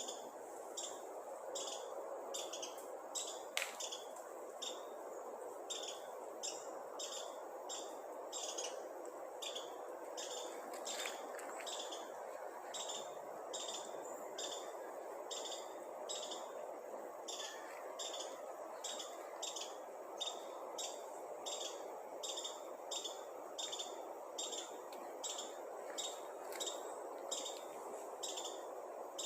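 A bird chirping over and over in an even rhythm, short high chirps about one and a half a second, over a steady background rush.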